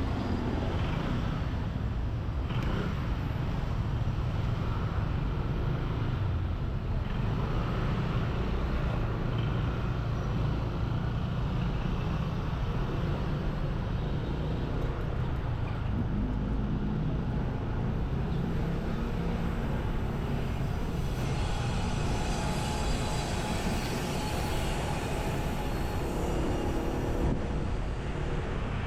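Riding on a motorbike: the engine running and wind rushing at the microphone, with road traffic around, and a higher-pitched engine sound for several seconds near the end.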